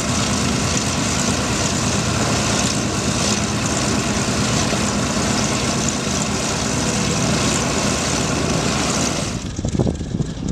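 Propeller fighter's radial piston engine running steadily and loud, with a dense, unbroken drone. It drops away abruptly about nine seconds in.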